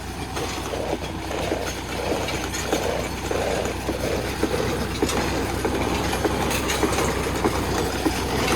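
Tractor engine running steadily while it tows a homemade drip-tape laying machine, with the towed metal implement rattling and clattering unevenly as it rolls over the field.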